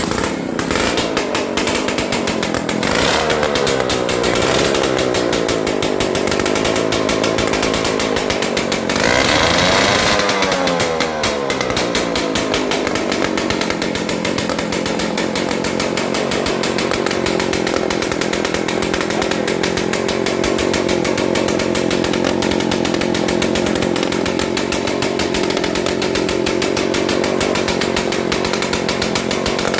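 Suzuki Max 100 100cc two-stroke engine running, revved twice with its pitch climbing and then falling away, then running steadily. Its exhaust is driving a small turbine that turns a generator.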